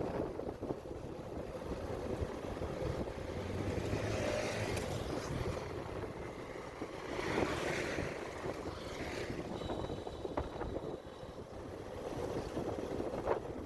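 Wind rushing and buffeting over the microphone of a moving motorcycle, with engine and road rumble beneath, swelling and easing unevenly.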